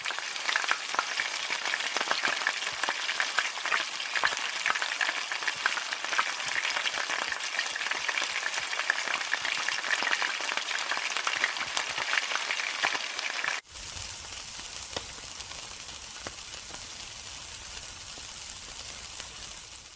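Food frying in hot oil in a wok: a loud, dense sizzle with many small pops. About two-thirds of the way through it cuts suddenly to a quieter, steadier sizzle of meat skewers grilling over charcoal.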